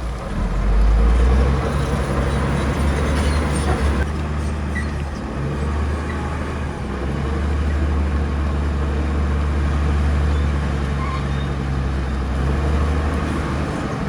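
Heavy diesel engine of earthmoving machinery running, a deep steady drone that swells in level about a second in and stays loud.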